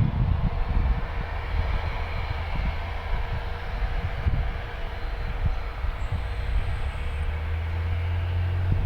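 Light propeller aircraft's engine running at takeoff power: a steady drone and hiss over an irregular low rumble.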